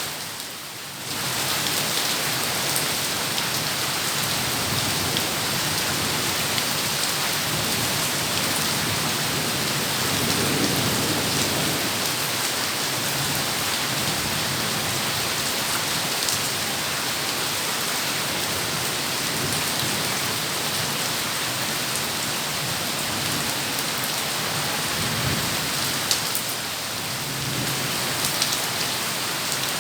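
Heavy rain pouring steadily onto surfaces in a continuous hiss, dipping briefly in the first second.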